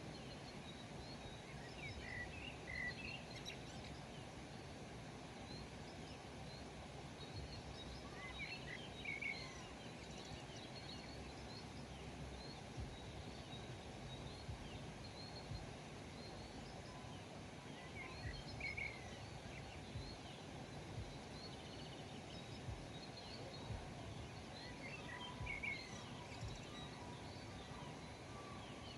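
Birds singing over a steady background hiss. One bird repeats a short phrase of a few quick notes about every seven to eight seconds, with fainter high chirps from other birds in between.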